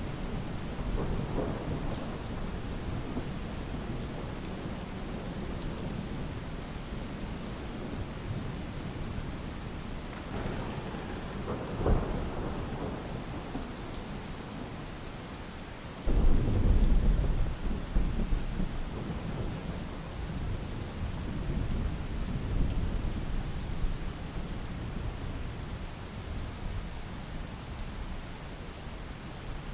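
Steady heavy rain with thunder: a short sharp crack near the middle, then a loud, low rumble that starts suddenly and rolls on for several seconds, and a smaller rumble later.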